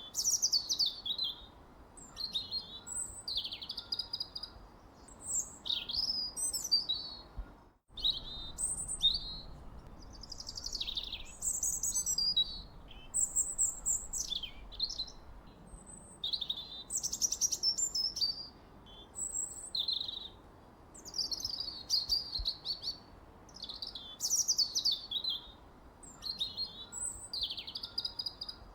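Songbirds singing: a continuous run of short, high-pitched chirping and warbling phrases, one after another, with quick pitch slides and trills. All sound drops out for an instant about eight seconds in.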